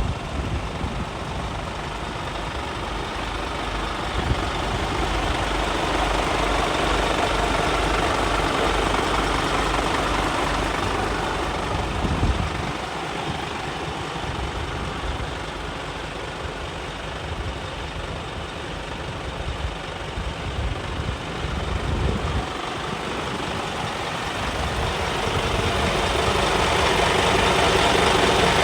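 Scania P280 skip-loader truck's five-cylinder diesel engine idling steadily, growing louder near the end.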